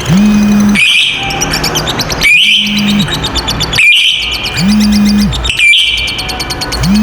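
Lovebird ngekek: a long, rapid, high-pitched chattering trill, with sharp shrill notes breaking in every second and a half or so.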